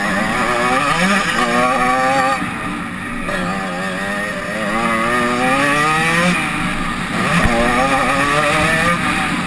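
Motocross bike engine heard from on board, revving hard as it accelerates along the track. The pitch climbs in several long rises, each cut off by a drop as the rider shifts gear.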